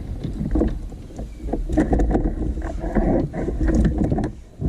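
A run of irregular knocks and bumps on a kayak over a low rumble, as a big blue catfish is handled aboard.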